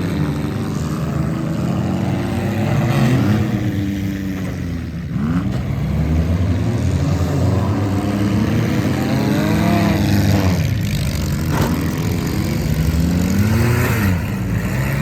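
Several demolition derby cars' engines revving up and down at once, their pitches rising and falling against each other, with a few short knocks about five, ten and a half and eleven and a half seconds in.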